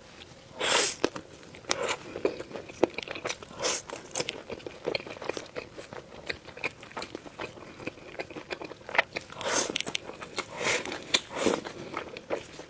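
Close-miked eating: a person biting into crunchy food and chewing, with a string of wet clicks and several louder crunches, the strongest about a second in and again around nine to eleven seconds.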